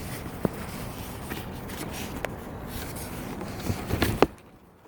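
Cardboard shoe box and its paper wrapping being handled: rustling with a few light taps and knocks, the loudest near the end, then it stops.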